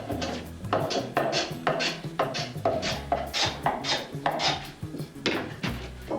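Hand woodworking tool cutting into wood in quick rhythmic strokes, about two to three a second, with a brief pause about five seconds in.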